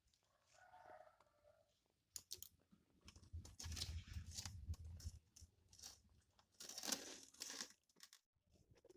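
Faint, intermittent crackling and crinkling. It is loudest in two spells, one from about three to five seconds in over a low hum, and another around seven seconds in.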